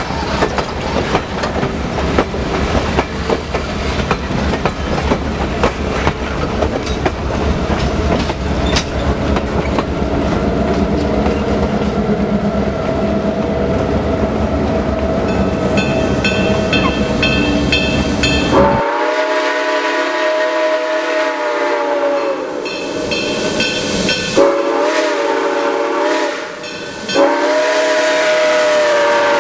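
A train rumbling and clattering along the rails, then the whistle of S160 2-8-0 steam locomotive #1702 blowing three times about two-thirds of the way in: one long blast and two shorter ones, the last running on past the end.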